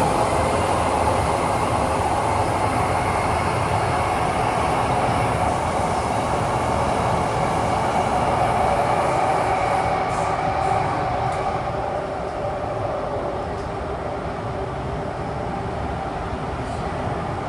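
Kawasaki–CRRC Sifang CT251 metro train running at speed through a tunnel, heard from inside the carriage: a loud, steady rumble of wheels and tunnel air with steady humming tones from the drive on top. The noise eases a little about twelve seconds in.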